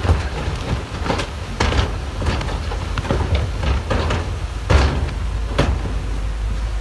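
Heavy earthmoving machinery working: a steady low engine rumble with irregular metallic clanks and knocks, about a dozen of them, the loudest nearly five seconds in.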